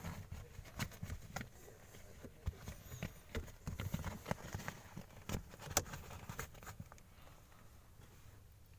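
Handling noise: irregular light taps, clicks and rustles, with a few soft thuds, settling down about seven seconds in.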